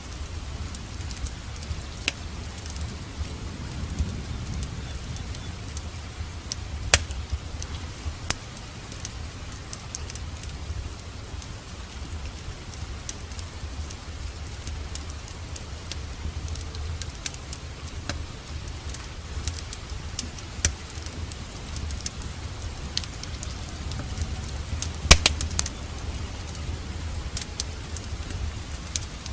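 Steady rain with a wood fire crackling, sharp pops scattered irregularly throughout, the loudest about a quarter of the way in and near the end, over a low steady rumble.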